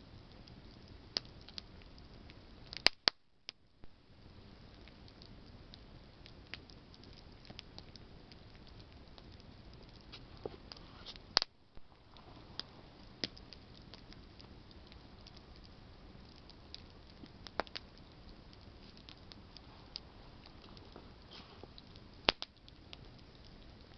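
Campfire of burning branches crackling: a steady low hiss with scattered sharp snaps, and a few much louder pops about 3, 11, 17 and 22 seconds in.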